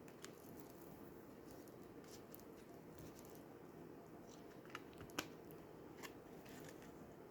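Near silence with a handful of faint, short clicks and taps of oracle cards being handled; the sharpest comes a little after five seconds.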